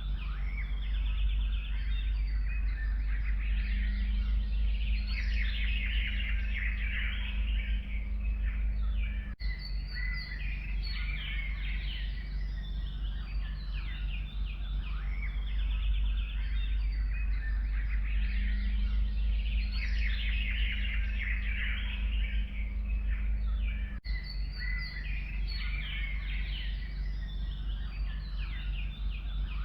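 A chorus of forest songbirds singing and chirping continuously, many overlapping calls and trills, over a steady low rumble.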